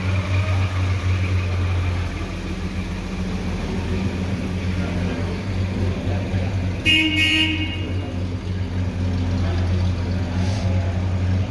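A vehicle engine running steadily, with one short car-horn toot about seven seconds in.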